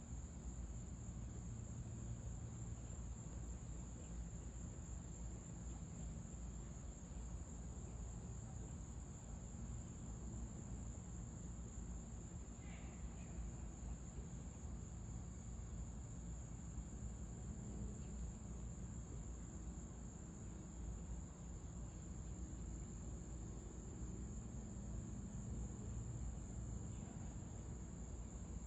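Insects, such as crickets, trilling continuously at a steady high pitch, over a low rumble. A single brief faint chirp comes about twelve seconds in.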